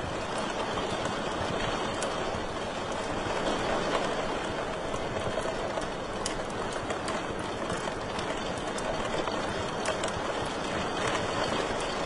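Wood fire burning in a fireplace: a steady hiss with scattered small crackles and pops.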